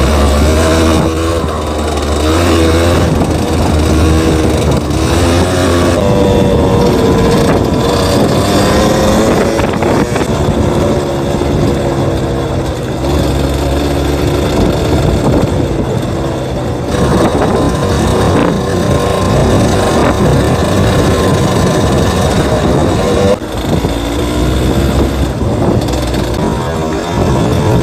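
Yamaha DT200WR two-stroke single-cylinder engine running as the bike is ridden, its pitch rising and falling with the throttle and gear changes. The sound changes abruptly three times.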